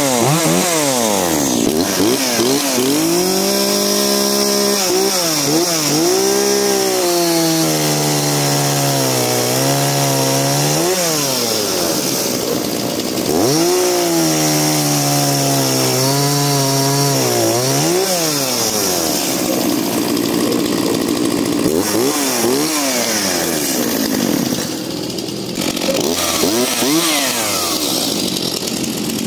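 Two-stroke chainsaw at full throttle cutting through a log twice, its engine note sagging under load during each cut. The revs fall back between the cuts, and short throttle blips follow near the end.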